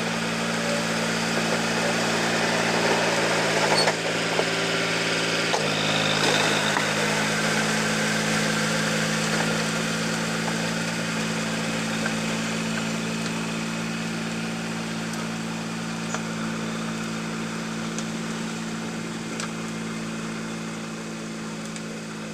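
Swaraj 735 FE tractor's diesel engine running steadily, with a small shift in its note about five and a half seconds in, then growing gradually quieter.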